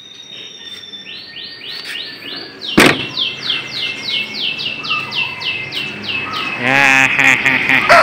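A songbird repeats a rapid string of high, falling chirps, about four a second. About three seconds in there is a single sharp bang. Near the end a rooster starts crowing.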